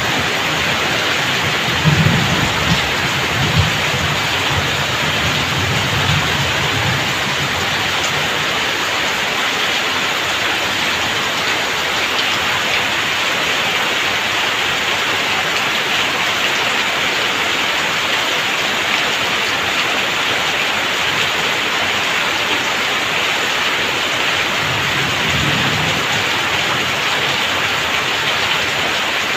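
Heavy rain pouring off roof edges and splashing onto the wet ground, a dense, steady hiss. Low rumbles of thunder come in about two seconds in and again briefly near the end.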